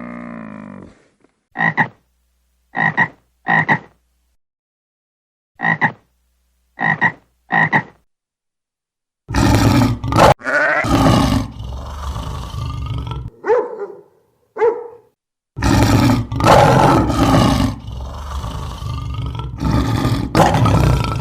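A frog croaking in two runs of three short calls, followed from about nine seconds in by a long stretch of loud, harsh animal calls.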